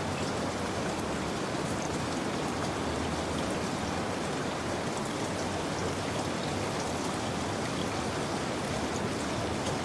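Steady rain, an even rushing noise with faint scattered drop ticks.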